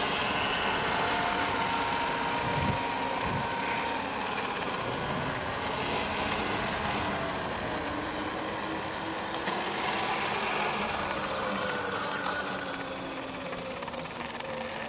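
Electric dirt bikes on a trail ride: a faint motor whine that slowly rises and falls in pitch, over a steady rushing noise.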